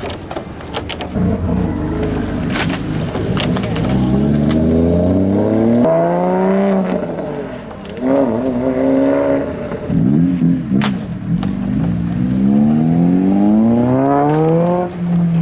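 Car engines revving hard through loud exhausts as the cars pull away, with several revs that climb in pitch and then drop back. Near the end one rev rises long and steadily.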